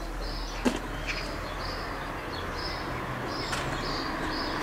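A small bird chirping in short, repeated high calls, about two a second, over a steady background rush that slowly grows louder. One sharp click a little under a second in.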